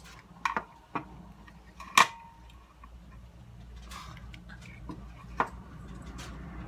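Scattered clicks and taps of plastic parts and circuit boards being handled inside an opened portable radio, the loudest knock about two seconds in with a brief ring.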